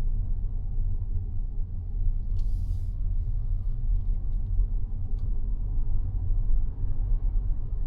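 Mazda 6e electric sedan being driven: a steady low road and tyre rumble, with a brief hiss about two and a half seconds in and a few faint ticks after it.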